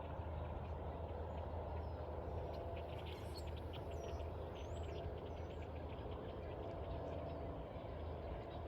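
Small birds chirping: a quick run of twittering notes and a few high, curving chirps about three to five seconds in, over a steady low rumble.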